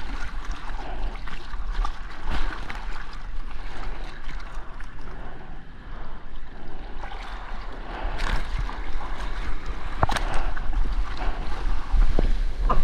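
Wind buffeting an action camera's microphone, with water sloshing and splashing around it in the surf, and scattered short splashes and knocks.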